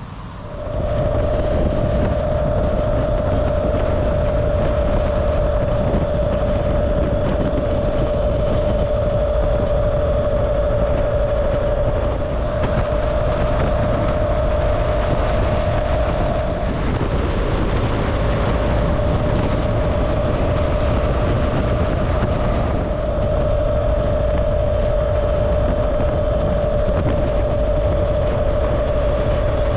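Steady riding noise from a BMW R1200GS Adventure motorcycle cruising at speed: the boxer-twin engine, road and wind, with a steady whine that drops out for several seconds just past the middle, then returns.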